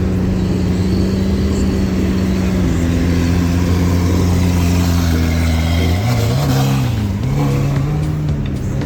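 Car engine running steadily, its pitch stepping up about three seconds in, then dipping and rising again after about six seconds as the revs change.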